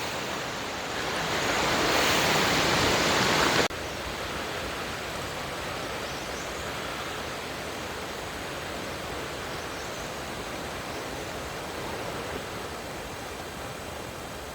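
Wind rushing through trees. It is louder for the first few seconds, then cuts off suddenly to a quieter, steady rush.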